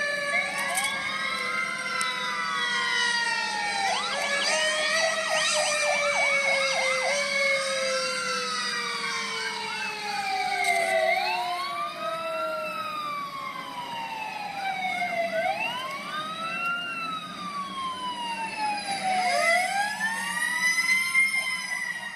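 Fire apparatus sirens sounding together as the trucks respond: several sirens overlap in a rising-and-falling wail, with a stretch of rapid yelp about four to seven seconds in, and under them a long, slowly falling tone.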